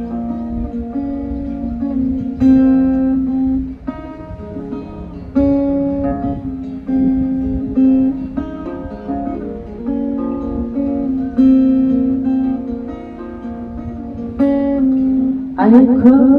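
Acoustic guitar playing a song's intro, with strummed and picked chords changing every second or two. A voice begins singing near the end.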